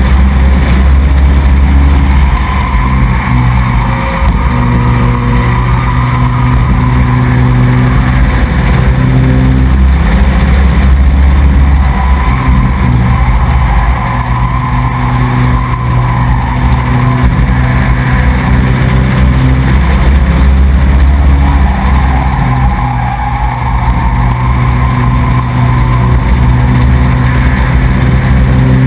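Racing truck's engine running hard at high revs, its note rising and dropping every few seconds as the throttle lifts and comes back on.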